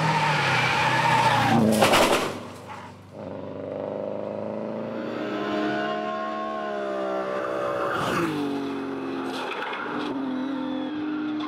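Racing car engines at full throttle. A loud car goes by and fades about two seconds in, then another engine carries on a little fainter, its pitch rising and falling as it revs up through the gears and backs off.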